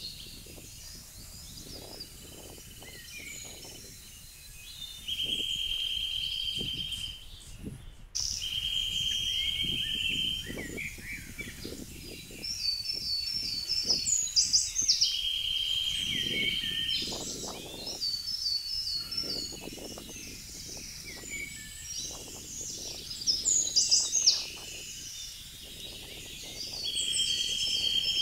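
Woodland birds singing. A buzzy trill of about two seconds repeats every few seconds, and higher chirping phrases run between the trills.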